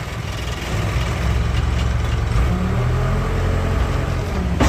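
Backhoe's diesel engine running steadily under load while the loader scoops compost, its pitch shifting and rising about two and a half seconds in. A sharp knock comes at the very end.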